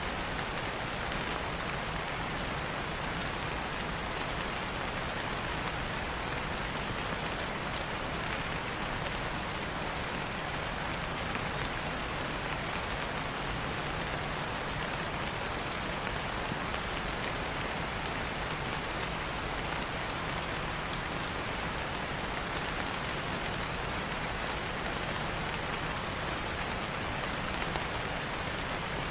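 Steady rain falling on leaves and foliage, an even hiss with the odd faint drop tick.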